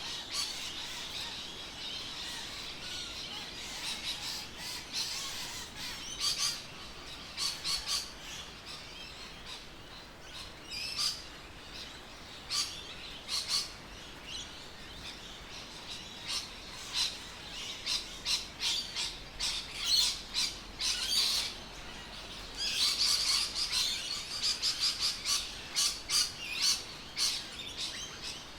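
Birds chirping and calling: many short, sharp calls in quick succession, busiest in the last few seconds.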